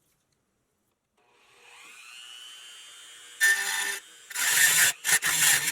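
A handheld power tool winds up with a rising whine and settles at speed. About three and a half seconds in it starts cutting into the work in three loud bursts with short breaks between them.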